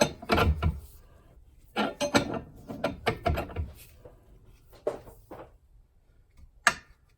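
Ratchet wrench clicking in short bursts while it turns the forcing screw of a ball joint press, pushing a ball joint out of a Dana 60 steering knuckle; the joint is moving out. One sharp single click near the end.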